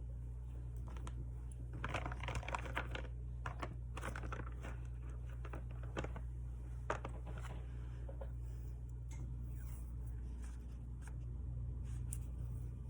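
Rustling, crinkling and small clicks of paper and tape being handled, busiest about two to four seconds in with a sharper click or two a few seconds later, over a steady low hum.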